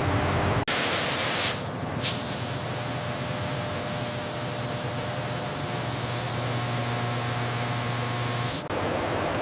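Loud, steady spraying hiss, like a high-pressure jet of air or water. It cuts in abruptly under a second in, breaks off briefly, then comes back and runs until it stops abruptly near the end.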